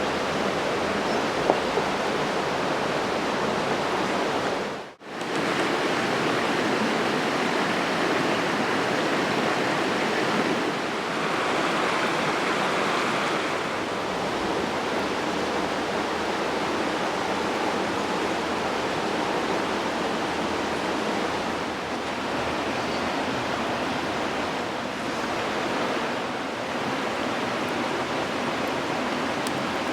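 Steady sizzling hiss of pancakes cooking over a wood campfire, with a faint crackle now and then; the sound dips out briefly about five seconds in.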